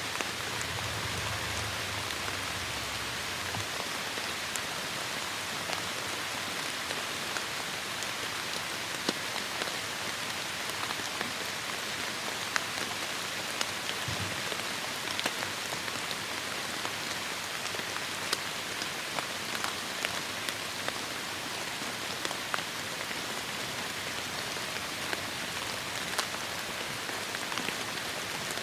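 Heavy rain falling steadily, with many individual drops striking close by as short sharp ticks over the even hiss.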